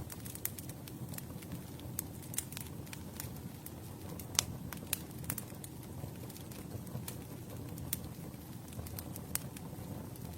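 Campfire of burning wood crackling, with irregular sharp pops over a low steady rumble of flame; the loudest pop comes a little under halfway through.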